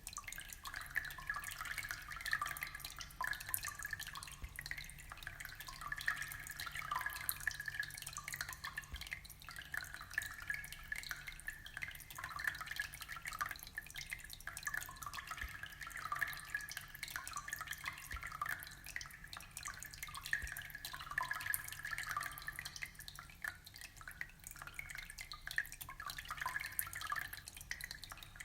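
Aquarium water trickling and dripping steadily: a dense, unbroken patter of small drips and splashes at the water surface.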